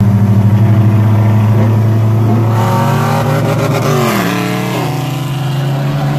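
Two engines under hard acceleration, a Mazdaspeed 3's turbocharged four-cylinder and a Dodge Challenger R/T's 5.7 Hemi V8 with an aftermarket cam and exhaust, heard from inside the Mazdaspeed's cabin. A loud, steady deep drone runs throughout. Engine pitch rises, then drops about four seconds in, as at a gear change.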